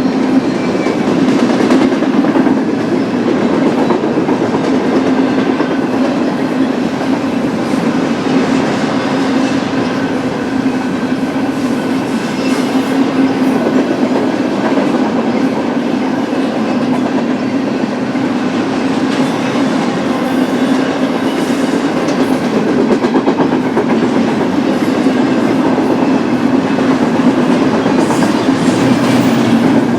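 A BNSF double-stack container train's cars rolling past, a steady, loud run of wheels on rail with no let-up.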